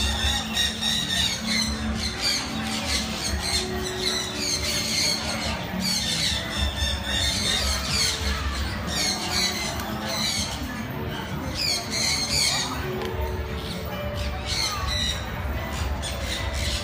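A flock of birds squawking and chirping continuously, many calls overlapping.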